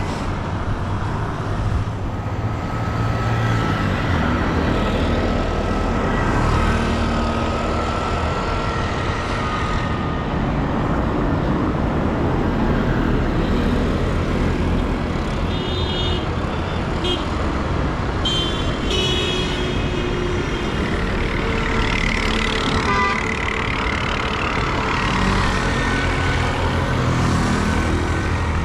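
Street traffic: vehicle engines running steadily, with a few brief horn toots about halfway through.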